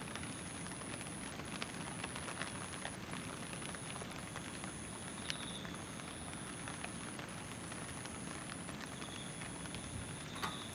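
Steady rain falling, an even hiss with many small drops ticking on nearby surfaces.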